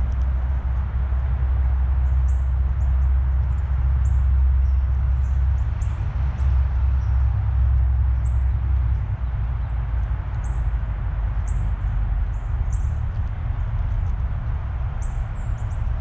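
Small songbirds giving many short, very high chirps in quick succession, over a steady low rumble.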